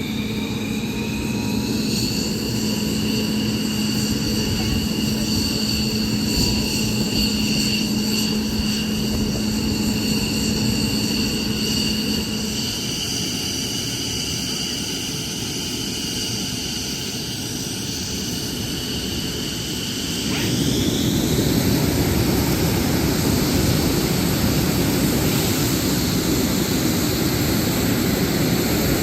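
F-15E Strike Eagle jet engines whining. The whine rises in pitch about two seconds in and then holds steady, while a steady low hum stops partway through. About two-thirds of the way in the whine climbs sharply and a louder rushing roar sets in as the engines spool up.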